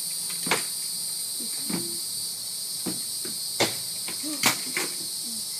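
A steady high-pitched chorus of insects, broken by several sharp knocks and clatters as the boat is rolled over and loose junk falls out of it.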